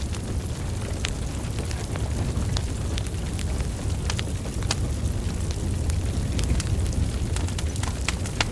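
Burning wood logs: a steady low rumble of flames with sharp crackles and pops at irregular intervals, about one or two a second.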